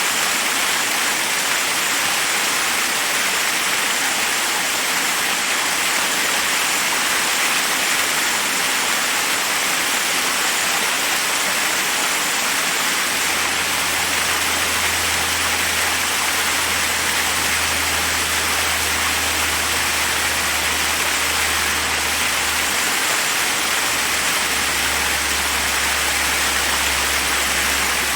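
Forest waterfall: water rushing steadily over rocks as a constant, even hiss. A faint low rumble joins in about halfway through.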